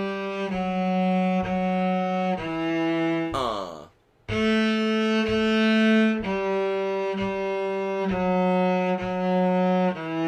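Cello bowed in long, even notes, about one per second, stepping down one at a time from the A string through the notes of the D string. The line breaks off briefly about four seconds in, then starts again from the top.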